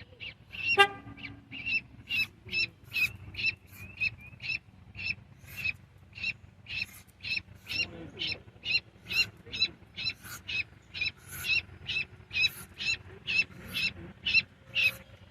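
Goslings peeping: a steady run of short, high peeps, about two or three a second, with one deeper honk about a second in.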